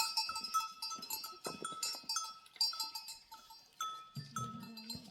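Many livestock bells on a flock of sheep and goats clanking and ringing unevenly as the animals move, with a low bleat from the flock near the end.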